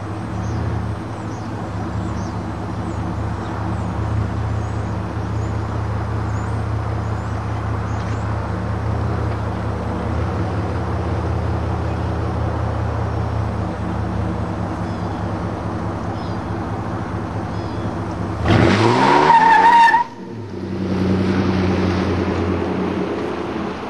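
2000 GMC Sonoma's 4.3-litre V6 idling steadily through Spintech Prostreet mufflers and dual tailpipes. About 18 seconds in it is revved hard, held briefly and cut off suddenly, then given a lighter rev before settling back to idle.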